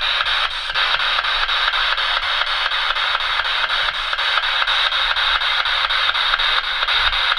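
Spirit box radio scanner sweeping rapidly through stations, giving a steady hiss of static chopped into quick regular pulses several times a second.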